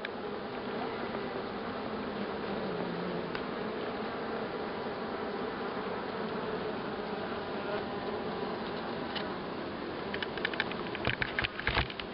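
Honeybee colony inside the hive, humming as a dense, steady drone that swells in at the start. Near the end a quick run of sharp clicks and crackles sounds over the hum.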